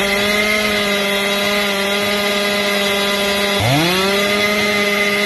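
Two-stroke chainsaw running at full throttle, one steady high-pitched note. About three and a half seconds in, its pitch drops sharply and climbs back to speed within half a second.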